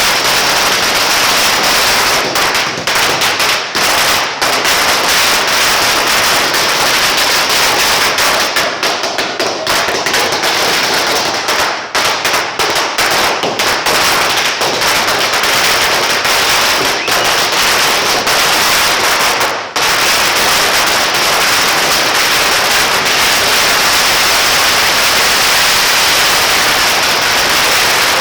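A 5000-cracker ladi, a long string of small firecrackers, bursting in one continuous rapid crackle of loud pops, with a momentary lull twice.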